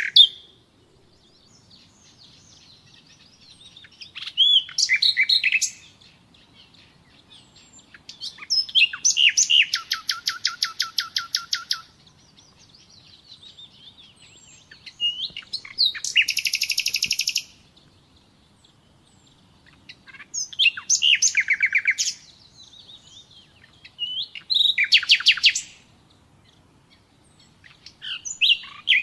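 Nightingale singing: separate phrases every few seconds, each a second or three long, several of them fast trills of the same note repeated many times a second, with short pauses between phrases.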